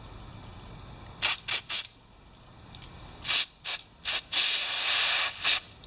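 Aerosol carburetor cleaner hissing from its can in several short squirts, then one longer spray of about a second and a half. It is being sprayed through the small passages of a Tecumseh carburetor's bowl nut to check that they are clear.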